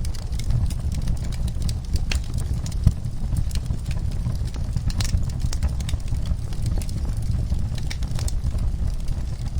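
Wood fire crackling in a fireplace: irregular sharp pops and snaps over a steady low rumble of the burning fire, with one louder pop about three seconds in.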